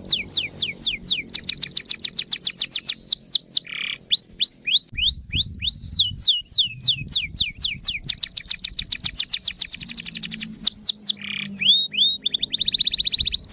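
Canary singing a long, loud song of changing runs: series of repeated falling whistles, some spaced out and some packed into fast trills, twice broken by a short harsh buzzy note.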